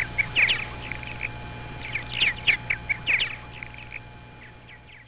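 Birds chirping in clusters of short, quick, downward-sliding chirps over a faint steady hum, fading away toward the end.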